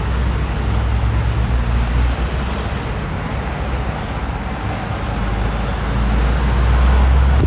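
Heavy truck engines and tyre noise on a busy road, with a steady low engine hum that grows louder toward the end.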